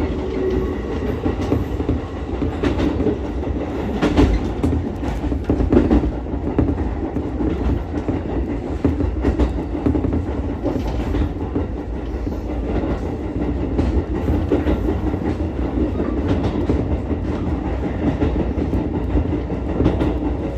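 Ichibata Electric Railway 7000-series electric railcar running along the line: a steady rumble of wheels on the rails, broken by scattered clicks over rail joints.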